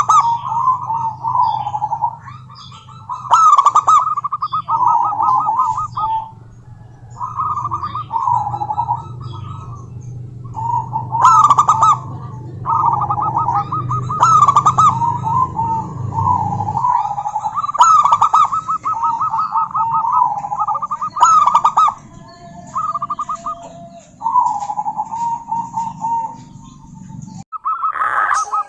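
Female zebra dove calling in rapid, staccato cooing phrases that repeat every second or two, some louder than others. A low steady hum runs underneath most of the time.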